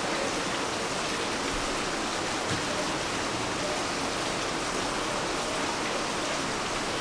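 Steady rain pouring down, an even, unbroken hiss.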